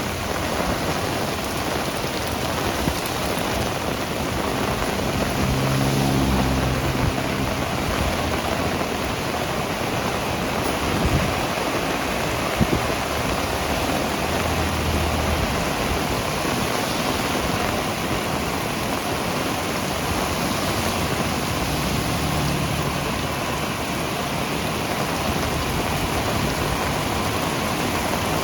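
Heavy rain falling steadily, a dense, even hiss. A low hum rises briefly about six seconds in and again, fainter, around fifteen and twenty-two seconds.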